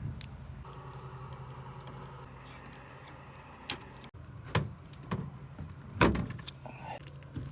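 Several short knocks and thumps, the loudest about six seconds in, over a steady low hum.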